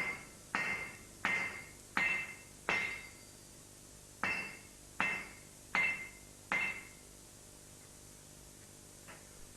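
Hammer blows on steel being bent to a curve, each strike ringing briefly. There are four evenly paced blows, a short pause, then four more, and the hammering stops about two thirds of the way in.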